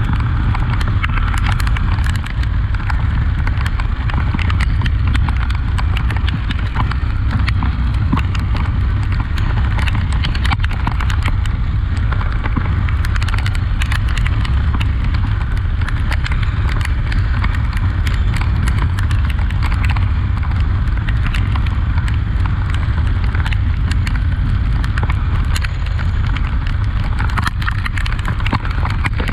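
Honda XRE 300 motorcycle being ridden off-road in the rain: a steady low rumble with many sharp clicks and knocks throughout.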